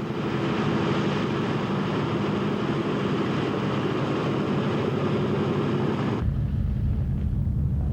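Radial piston engines of a B-17 Flying Fortress running steadily, a dense multi-engine drone. About six seconds in, the sound cuts abruptly to a lower, duller rumble without the high hiss.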